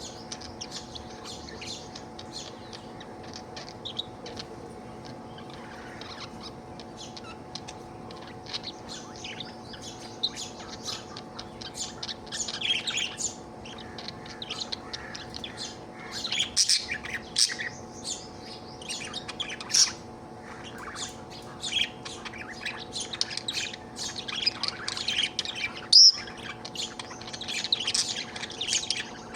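Budgerigar chattering: a stream of quick, high chirps and squawks, sparse at first and busier from about halfway through. A steady low hum runs underneath.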